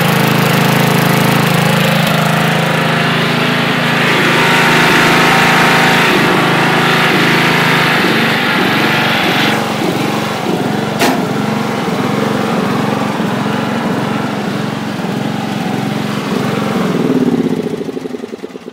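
1985 Craftsman II lawn tractor's engine running steadily, then throttled down a little past halfway to a slow idle with separate firing beats, with a single sharp click soon after. Near the end it is shut off and winds down to a stop.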